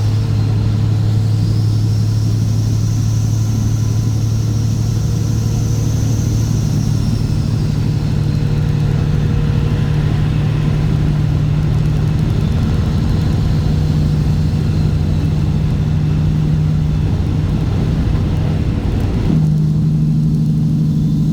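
Straight-piped Cat C15 ACERT inline-six diesel running a truck down the road. The engine note drops right at the start, as on an upshift, then climbs slowly as the truck pulls through the gear, and changes again near the end.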